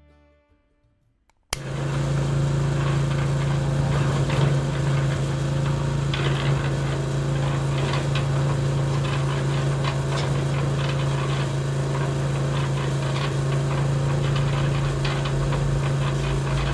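A small motor starts abruptly about a second and a half in and runs steadily with a constant low hum and a rapid rattle of clicks.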